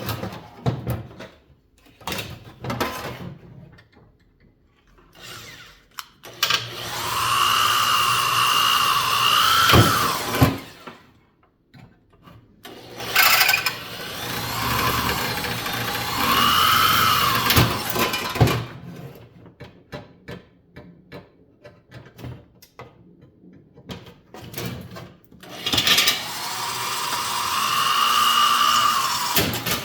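Electric drill drilling out the rivets that hold a box fan blade to its hub, in three runs of a few seconds each. The motor's whine rises as it spins up and drops as it stops. Between the runs come clicks and knocks of metal parts being handled.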